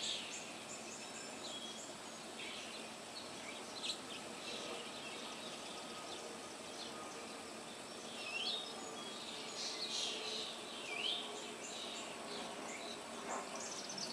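Small birds chirping and calling, many short high chirps and a few swooping notes, over a steady background hiss.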